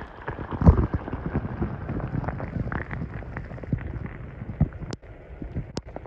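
Shallow creek water sloshing and splashing close to the microphone, a steady patter of many small irregular splashes and clicks.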